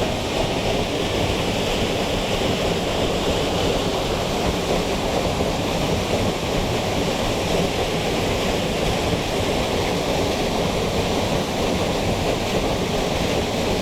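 Steady rush of a waterfall, water pouring over rock close by.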